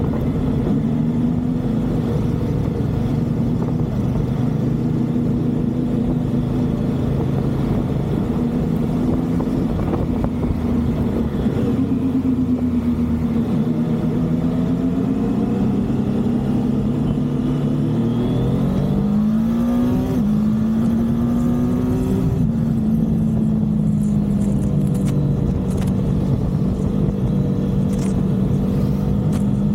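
Superbike engine running steadily at road speed, its pitch climbing in a rising rev about two-thirds of the way through before levelling off again, over a constant rush of noise.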